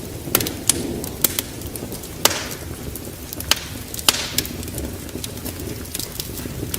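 Wood fire in a fireplace crackling, with sharp irregular pops and snaps, the loudest about two and four seconds in, over a steady low rush.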